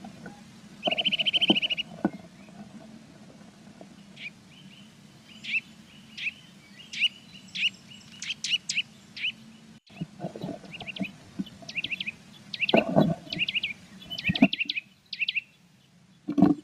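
Blue tits calling around a nest box during incubation: a short, loud, buzzy trill about a second in, then a long run of quick, high chirps. Low knocks and rustles, loudest about two thirds of the way through, come from movement against the nest box.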